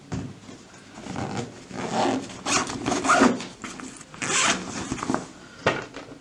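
Close handling noises: irregular rustling and scraping strokes with a few sharp clicks, in uneven bursts.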